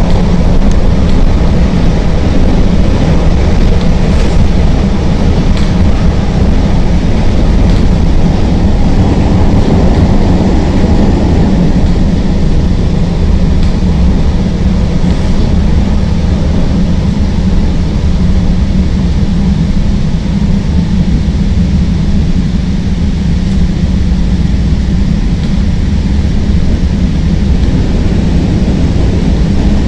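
CTA Green Line elevated train running between stations, heard from inside the car: a loud, steady low rumble of wheels on the rails with a few faint clicks.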